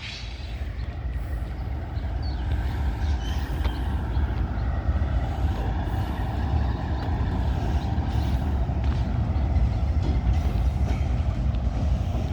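A CN freight train passing, with a steady low rumble that builds over the first couple of seconds and then holds.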